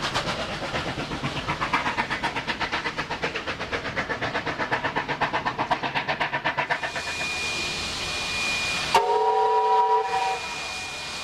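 NSW C38 class steam locomotive working along, its exhaust beats chuffing in a quick regular rhythm of about six a second. The beats give way to a steady hiss of steam, then one short whistle blast about nine seconds in.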